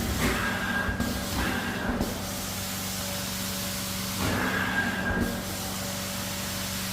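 Carpet extraction cleaner running: a steady hiss of spraying and suction over a constant motor hum, with a higher whine that comes and goes in stretches.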